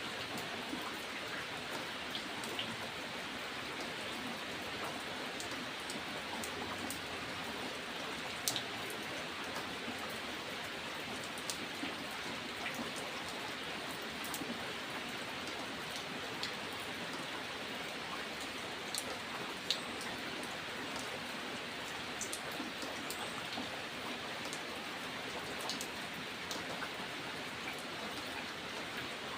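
Steady rain falling, an even hiss with scattered single drops ticking sharply close by.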